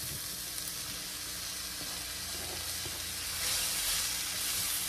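Sliced mushrooms and onion sizzling in olive oil and butter in a cast iron skillet. The sizzle grows louder about three seconds in as they are stirred with a spatula.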